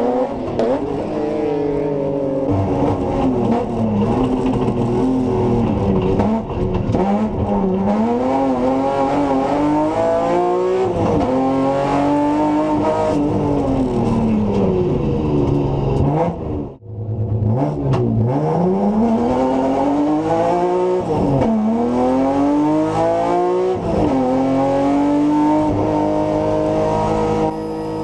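BMW M3 race car engine at full throttle, its pitch climbing and dropping again and again through the gears, with a brief sharp cut about seventeen seconds in.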